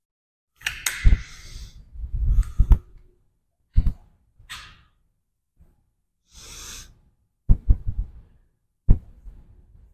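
A person breathing hard and blowing out forcefully in a few long hissy exhalations while straining through a set of a leg exercise. Five or six sharp knocks fall among the breaths.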